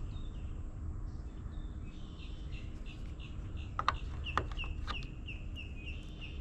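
A bird calling: a fast run of short, falling chirps, about four a second, starting about two seconds in. A few sharp clicks come through in the middle.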